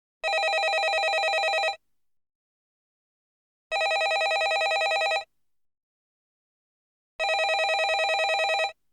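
Landline telephone bell ringing: three rings of about a second and a half each, each a fast trill, separated by pauses of about two seconds.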